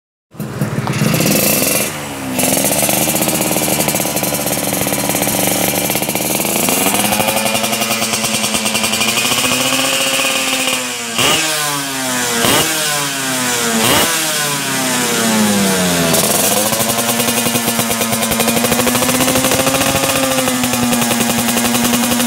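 Two-stroke motorcycle engine running through an aftermarket racing exhaust, revved up and down repeatedly. Three quick throttle blips come around the middle, and the engine settles to a steady fast idle near the end.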